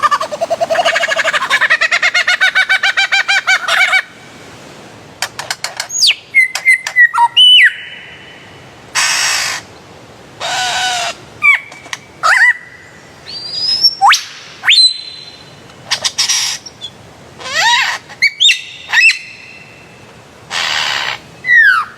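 Bird calls: a rapid rippling trill for about the first four seconds, then a varied run of separate notes, sharp downswept whistles, harsh noisy calls and a few rising whistles, with short pauses between them.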